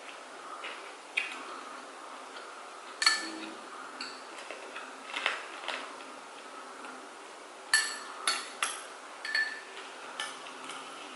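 Cutlery clinking against plates and bowls during a meal: a dozen or so separate sharp clinks with brief ringing, the loudest about three seconds in and a quick run of them around eight seconds in.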